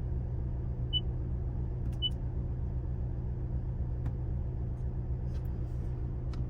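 2026 Toyota Tacoma Trail Hunter pickup idling with a steady low hum. A high electronic warning chime beeps about once a second and stops about two seconds in, and a few faint clicks follow.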